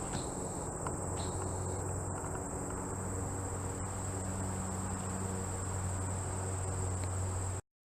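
Crickets trilling steadily in a high continuous chorus, over a low steady hum. The audio cuts out for a moment near the end.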